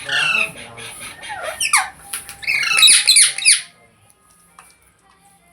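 Green ringneck parrot screeching: a run of sharp, high calls that each drop in pitch, coming fastest and loudest about three seconds in, then breaking off after about three and a half seconds.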